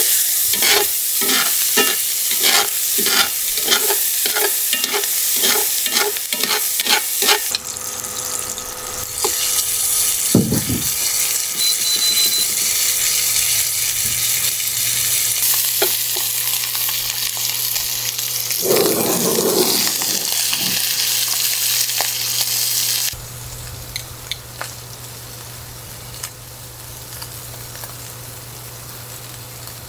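Peppers and onions sizzling in butter in a skillet on a portable hot plate. For the first seven seconds or so they are stirred with regular strokes about twice a second. About 23 s in, the sizzle suddenly drops much quieter.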